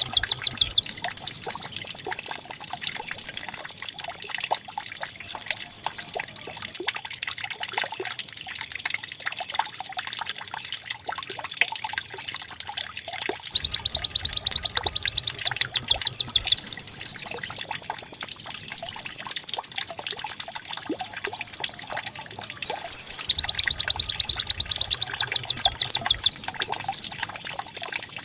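White-eye (pleci) song played as a lure track to get other pleci singing: a loud, fast, high-pitched canary-like trill phrase repeating over and over. The song drops to faint chirps for about seven seconds after the first six, and pauses briefly about two-thirds of the way through.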